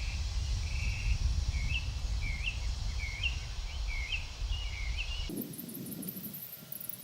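A bird calling outdoors, repeating a short rising chirp about six times, under a steady low rumble. Near the end the rumble cuts off suddenly and faint high-pitched ticking begins.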